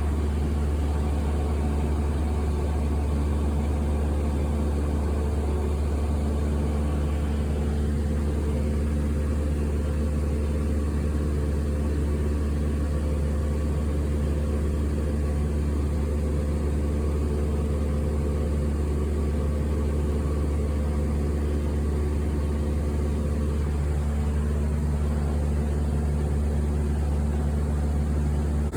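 Steady low engine drone with a constant hum of steady tones over it, as heard inside an airliner's cabin; it holds the same level throughout without rising or falling.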